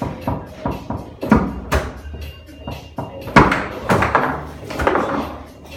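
Foosball table in play: a rapid, irregular string of sharp knocks and clacks from the ball and the rod men striking, loudest in the middle, with music in the background.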